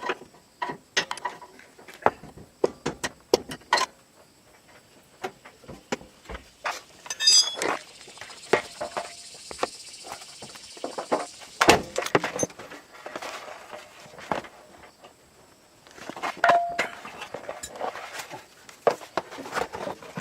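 Irregular clinks, knocks and rustling of things being handled, with a brief metallic jingle about seven seconds in and a stretch of hiss soon after.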